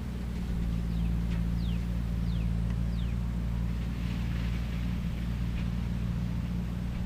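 Skid steer engine running at a steady speed, a low even hum, with a few short, falling high-pitched chirps about one to three seconds in.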